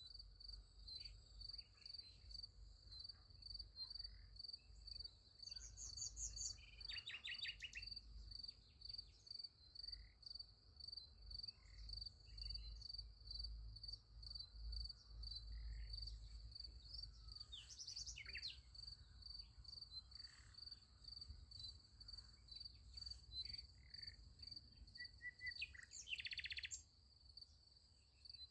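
Crickets chirping steadily in an even, high-pitched pulse, with a few short bird calls breaking in now and then over a faint low rumble.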